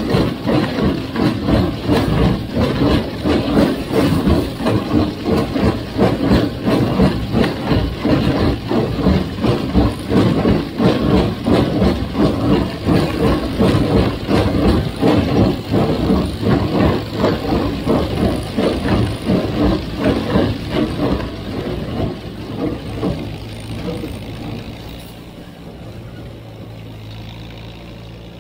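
John Deere 348 square baler running behind a 1958 Farmall 350 gas tractor: even, rhythmic strokes over the steady engine, working under load. About 22 seconds in the rhythm fades away, leaving a quieter, steady engine.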